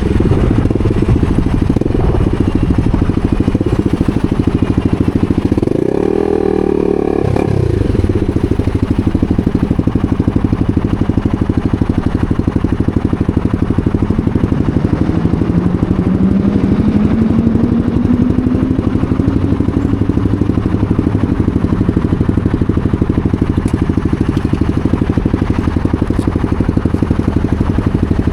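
250 cc supermoto motorcycle engine running, with a quick rev up and back down about six seconds in. Its pitch climbs slowly again through the middle.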